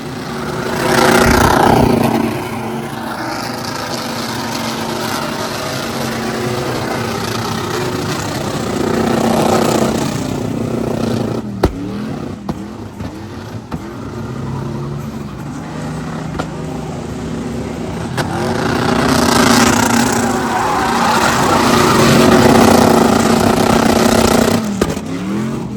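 A car or truck engine revving hard three times in long swells, with the rpm dropping and climbing quickly between them.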